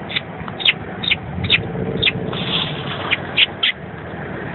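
Baby birds in the nest chirping: a series of short, high chirps, each dropping in pitch, about two a second. A steady low hum runs underneath.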